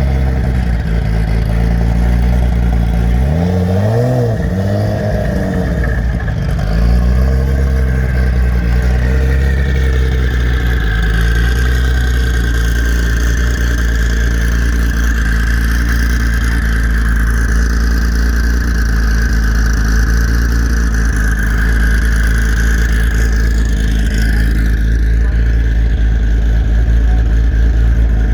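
A car engine idling loudly and steadily, blipped twice in quick succession about four seconds in.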